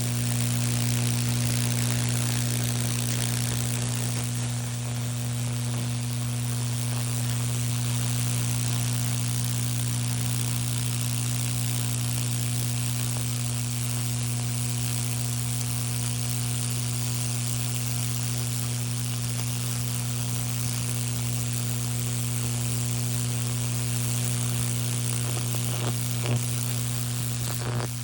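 High-voltage transformer humming steadily while it drives a Lichtenberg burn, with a constant high sizzling hiss from the current burning its fractal path through the wood. A few faint clicks come near the end.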